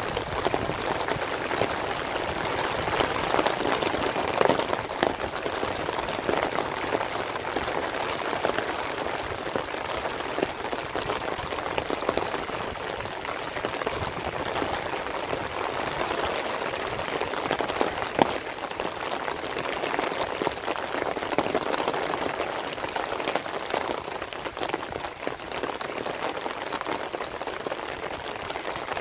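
Heavy rain falling steadily on standing water and the leaves of a tall green crop, a dense, even hiss of many drops.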